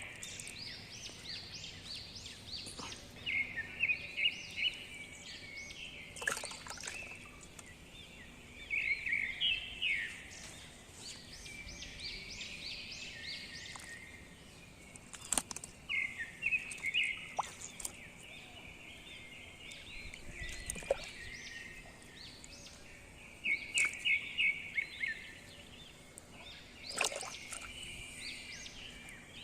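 Small birds chirping in quick runs of rapid notes that come back every few seconds. Scattered sharp clicks sound in between.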